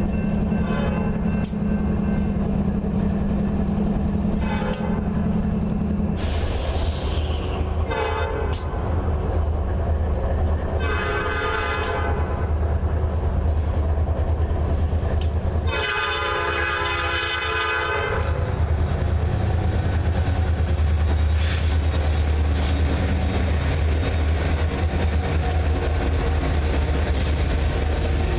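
Train locomotive running with a steady low rumble while its horn sounds several blasts, a short one about six seconds in, then others at about eight and eleven seconds, and the longest, about two seconds, near sixteen seconds.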